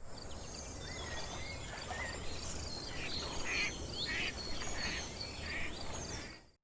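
Outdoor nature ambience of several birds chirping and whistling over a steady insect trill, fading out near the end.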